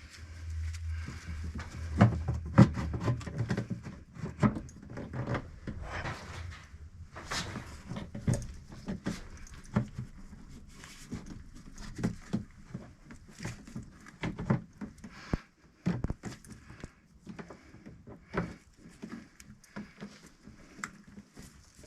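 Irregular clicks, knocks and rattles of hand work on a car's A/C hose line and its fittings, with a low hum that fades out about two seconds in.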